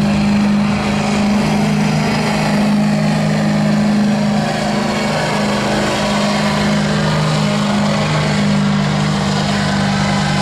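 Ford 7.3 IDI V8 diesel pickup engine held at a steady high rev under heavy load, pulling a sled down the track.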